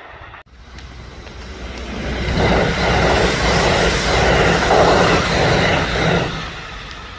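A train passing by: its running noise builds up, stays loud for a few seconds with a repeating clatter of wheels over rail joints, then fades away.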